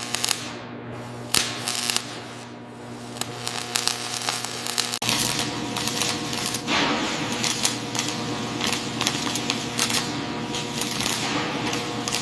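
Industrial shipyard clatter: dense, rapid metallic clicks and knocks over a steady machine hum. The sound changes abruptly about five seconds in and becomes thicker and busier.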